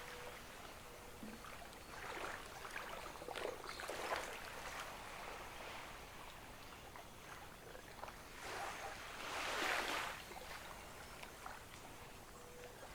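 Gentle ocean waves washing onto a beach, the surf swelling twice, about two to four seconds in and again near ten seconds, with a fizzing wash between.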